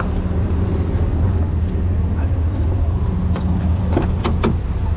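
Vehicle engine running steadily with a low, even hum, with a few sharp clicks or knocks about four seconds in.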